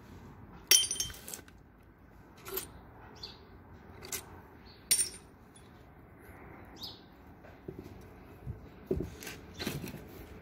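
Loose metal nuts and small engine parts clinking and tapping as they are handled and set down, a handful of separate clinks. The loudest, a ringing clink, comes about a second in, and a cluster of duller knocks comes near the end.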